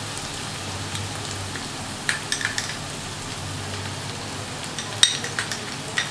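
Onion paste frying in mustard oil in a wok, a steady soft sizzle, with a few light clicks of a metal spoon, about two seconds in and again near five seconds, as ginger and garlic paste is spooned in.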